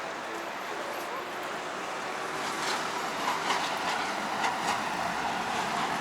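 City traffic noise of a passing vehicle, swelling about halfway through. A quick string of rattling clicks runs through the second half.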